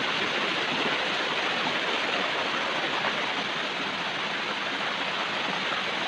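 Steady rush of flowing water from a waterfall and its stream, an even unbroken noise.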